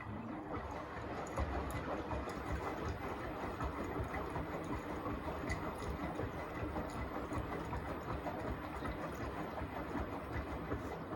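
Beko WTK104121A washing machine drum turning during the rinse, with a steady motor rumble and the wet laundry tumbling inside.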